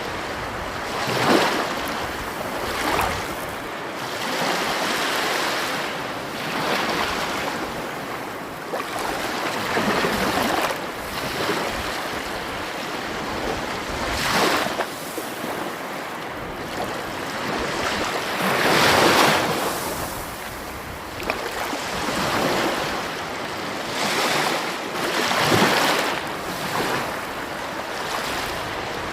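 Sea waves washing ashore: a steady rushing hiss that swells with each wave every few seconds, the biggest swell about two thirds of the way through.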